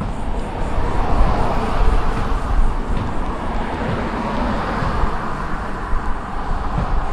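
Wind buffeting the microphone of a camera on a moving bicycle, a heavy low rumble, under a rushing road noise that swells about a second in and slowly eases off.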